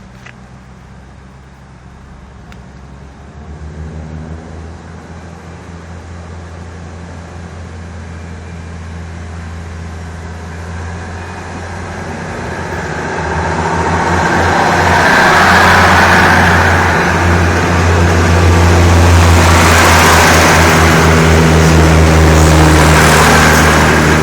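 Diesel train pulling out of a station, its engine running under load and growing steadily louder as it draws closer. About halfway through, rushing wheel-and-rail noise joins in, and the train is loudest as it passes close by.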